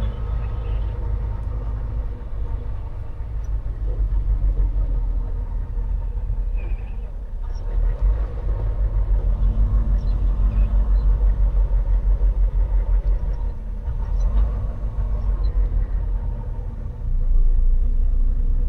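Semi truck's diesel engine rumbling at low speed, heard from inside the cab, swelling louder a couple of times as the truck is manoeuvred into a parking space.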